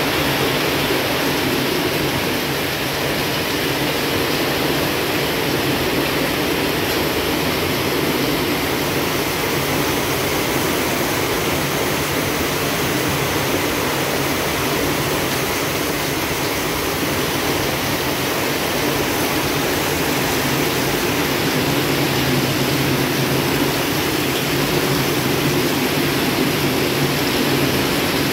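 Heavy rain falling steadily, a loud even hiss that holds without a break.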